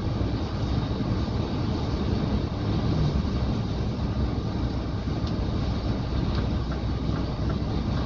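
Scania truck driving at speed, heard from inside the cab: a steady low drone of engine and road noise.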